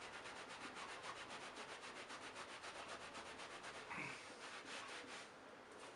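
Freshly oiled brush bar of a 1980s Hoover Senior U4186 upright vacuum turning, giving a fast rhythmic rubbing tick of about eight strokes a second. The ticks slow and stop about five seconds in, with a short squeak just before.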